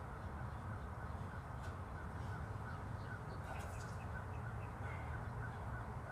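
Birds calling outdoors in a quick, even series of short faint chirps, about three a second, over a steady low rumble.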